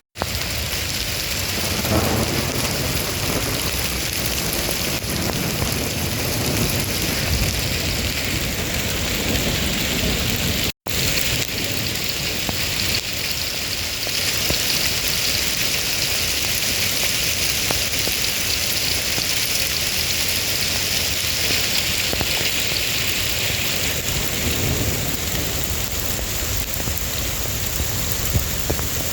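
Heavy rain pouring down in a steady, dense hiss, with low thunder rumbling in the background. The sound drops out for an instant about eleven seconds in.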